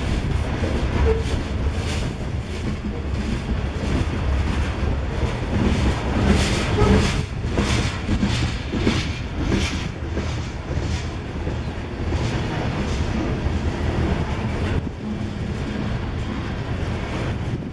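Freight train of grain cars rolling past, a steady low rumble with wheels clicking over the rail joints, the clicks thickest about halfway through.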